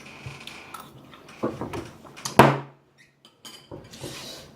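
Tableware being handled during a meal: scattered knocks and clinks, with one loud knock about two and a half seconds in.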